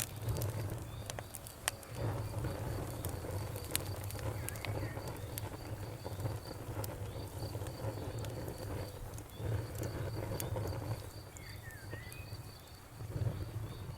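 Wood fire burning in a fireplace: irregular sharp crackles and pops over a steady low rumble of the flames. A faint high, evenly pulsing chirp runs underneath.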